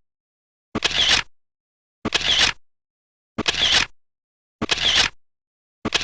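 A short clattering click sound effect repeated identically about every 1.3 seconds, five times, with dead silence between each.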